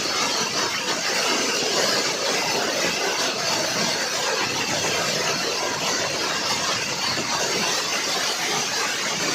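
Hailstorm with heavy rain pelting down, a dense, steady hiss of countless small impacts.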